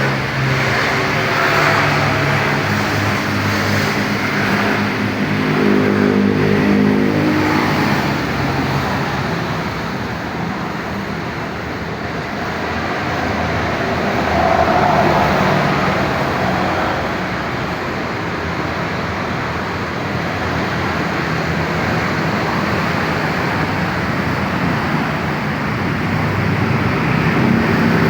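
Kawasaki KX112 two-stroke dirt bike engine running, its revs rising and falling several times.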